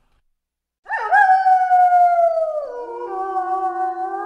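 Grey wolf howling: one long howl that starts about a second in, slides slowly down in pitch, then breaks abruptly lower past halfway and is held.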